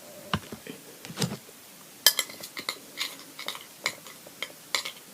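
A utensil clinking and scraping against a bowl while glue and laundry detergent are stirred together into slime, in irregular taps that come faster and louder after about two seconds.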